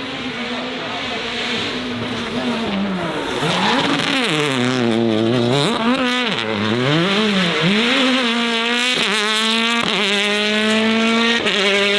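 Race car engine revving, the pitch swinging up and down repeatedly, then two brief breaks like quick gear changes followed by a steady, slowly climbing note under hard acceleration.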